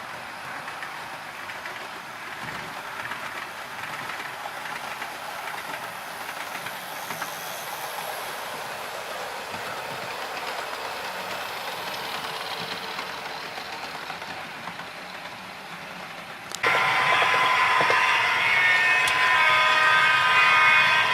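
OO gauge model train running on the track, a steady whirr with wheels clicking over the rail joints. About sixteen seconds in the sound jumps abruptly louder and a steady whine comes in.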